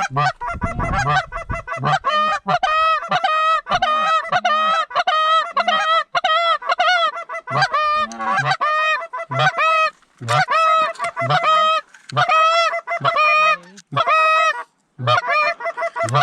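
Goose honking: repeated two-note honks, a short low note breaking up into a higher one, a couple of times a second, with brief pauses now and then.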